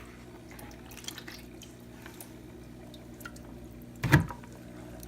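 Water dripping and lightly splashing as small mosquito fish are transferred into a home aquarium, with one louder splash or knock about four seconds in, over a steady low hum.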